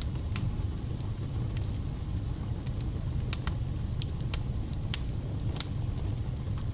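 Wood fire burning: a steady low rumble of flame with irregular sharp crackles and pops from the burning logs.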